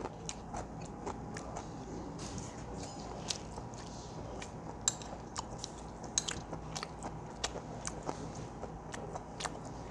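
Close-miked chewing of a mouthful of spicy seafood fried rice, with many short, sharp wet mouth clicks and lip smacks, and the spoon now and then scraping the metal pan.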